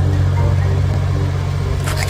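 Cartoon vehicle engine sound effect, a steady low rumble, under light background music with a simple repeating melody. Near the end, short sharp sound-effect clicks begin.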